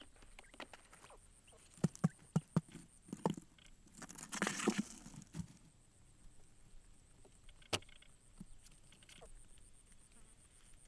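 Light handling noises: a quick run of taps and knocks, a brief rustle about four seconds in, and a single sharp click near eight seconds.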